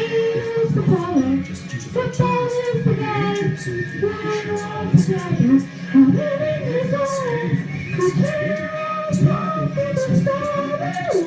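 Singing with musical accompaniment, a melody of held and sliding notes.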